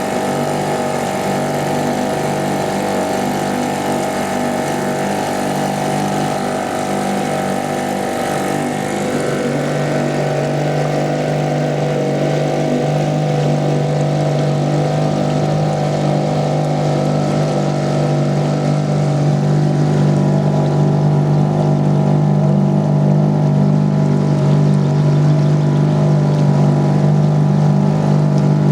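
FISHER 2.5 small outboard motor running steadily, driving a boat under way. About nine seconds in its note shifts and it becomes a little louder.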